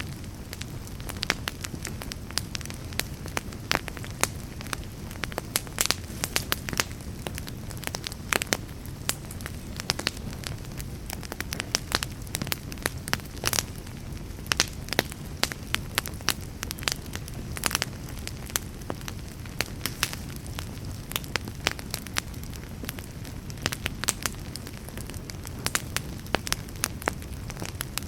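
Wood fire burning in a fireplace, crackling steadily: many irregular sharp pops and snaps over a low steady rush of the flames.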